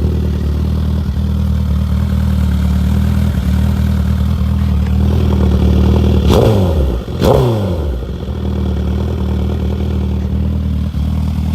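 2015 Suzuki GSX-R1000's inline-four idling through a Two Brothers full exhaust system, blipped twice in quick succession about six and seven seconds in, then settling back to idle. It stops abruptly at the end.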